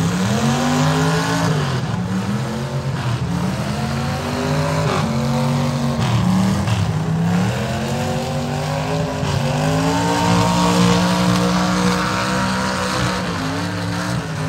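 Demolition derby cars' engines revving up and falling back again and again, several at once, over a steady wash of arena noise.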